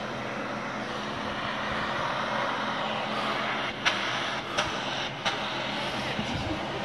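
Off-road 4x4 engine running steadily, with three short sharp knocks a little past halfway.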